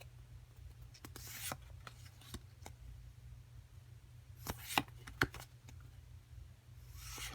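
Japanese Pokémon trading cards being handled and slid past one another, a few soft swishes with a couple of sharp clicks, over a steady low hum.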